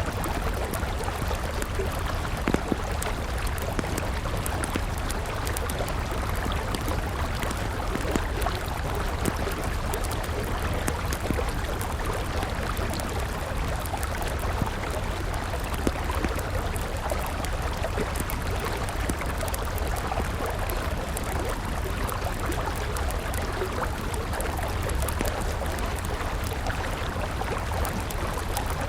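River water flowing steadily, with a wood campfire crackling over it in scattered small pops and an occasional louder snap.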